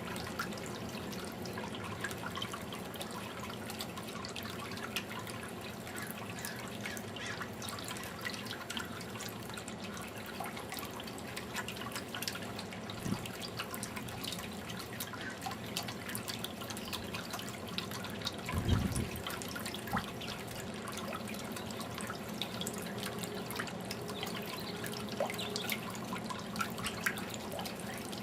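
Garden fountain water trickling and dripping steadily, with many small splashes. A single low thump about two-thirds of the way through is the loudest sound.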